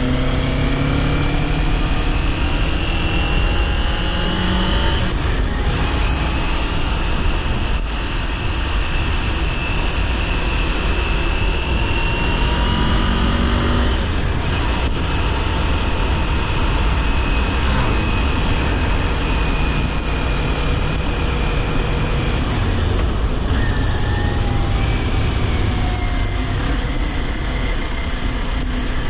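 Kawasaki Ninja 400 parallel-twin motorcycle engine under way, its note climbing over the first few seconds and then holding fairly steady at cruising revs, over a heavy rumble of wind and road noise.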